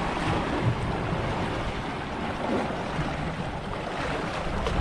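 Steady rush of sea waves and wind, with wind on the microphone.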